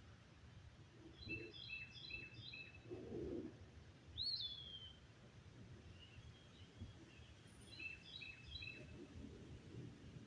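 A songbird singing: two short phrases of quick repeated high notes about six seconds apart, with a single slurred note rising and falling between them. Faint low rumbling noise underneath.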